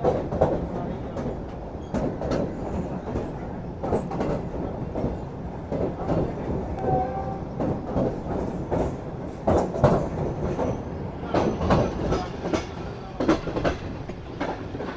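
Passenger train running on the track, heard from on board: a steady rumble with irregular clacks of the wheels over rail joints, and a brief high tone about seven seconds in.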